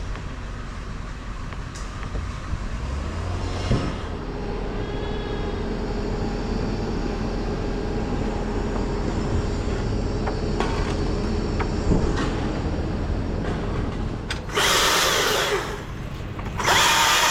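Bucket truck engine running steadily, with two loud bursts of about a second each from a power tool near the end.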